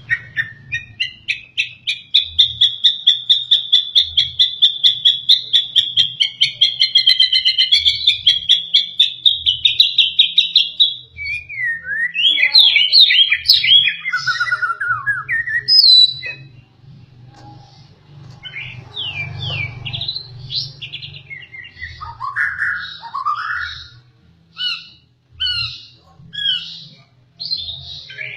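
White-rumped shama singing: a long, very fast trill for about the first ten seconds, then varied whistled phrases with short pauses between them.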